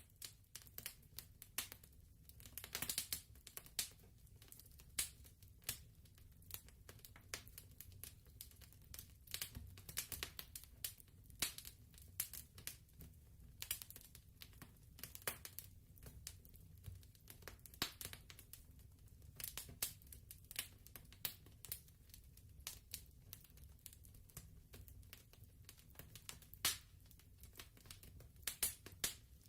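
Fireplace crackling quietly: irregular sharp pops and snaps of burning wood over a low, steady rumble.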